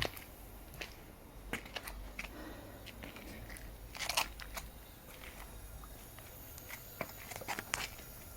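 Scattered crunches and clicks, with a denser cluster about four seconds in and a few more near the end, over a steady low rumble.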